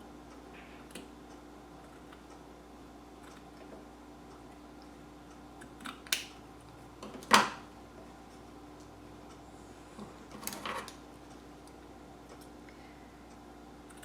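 A few scattered light clicks and knocks of hands working a metal tin and craft materials. The loudest is a single sharp knock about seven seconds in, and there is a faint steady hum underneath.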